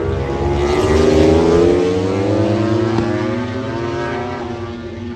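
Racing motorcycle passing at speed: its engine note climbs as it comes in, is loudest a little over a second in, then drops in pitch and fades as it goes away.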